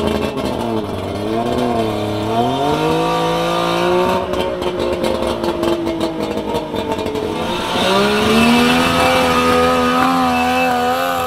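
Suzuki Jimny SJ10's two-stroke three-cylinder engine revving under load as the jeep pulls up a slope. The engine note dips and rises, holds steady, then climbs again about eight seconds in and stays high.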